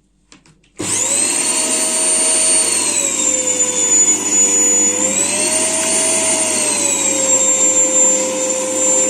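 1800 W canister vacuum cleaner switched on about a second in and running loudly with a high whine, its pitch dropping, rising again and dropping again. It is the repaired machine's first run, showing that the new contact plate in the cord reel fixes its failure to start.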